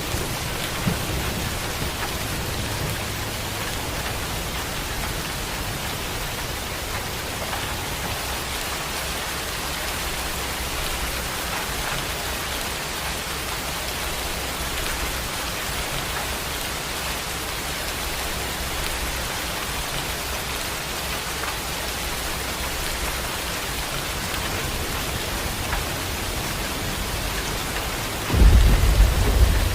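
Heavy rain falling steadily, with a low rumble of thunder underneath. About 28 seconds in, a loud rumble of thunder starts suddenly.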